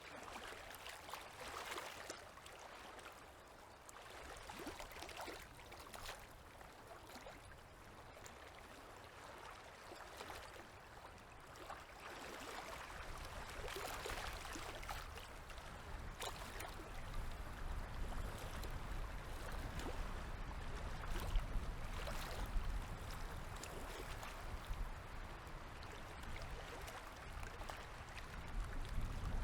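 Small river waves lapping and splashing irregularly against the shore, with a low rumble that grows louder in the second half.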